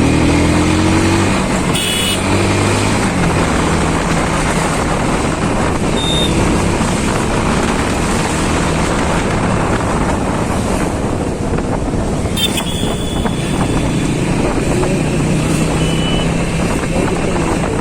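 Riding on a TVS Apache RTR 200 4V motorcycle: a loud, steady rush of wind and road noise over the microphone, with the single-cylinder engine running underneath. A few brief high beeps come through, including one with a sharp click about two seconds in and another about twelve seconds in.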